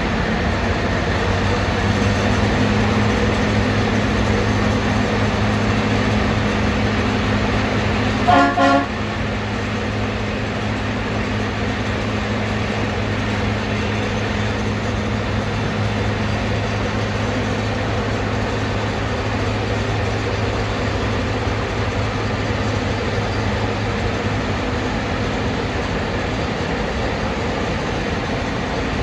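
A Mount Washington Cog Railway locomotive running with a steady low hum, with one short toot of its horn or whistle about eight seconds in, as the train gets ready to leave.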